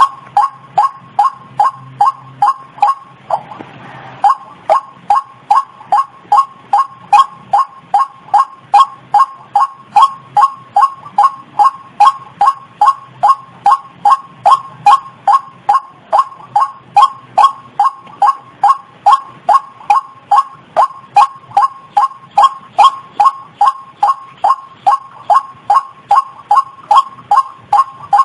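White-breasted waterhen call, a lure recording: one short, clipped note repeated evenly about two to three times a second, with a brief break about three seconds in.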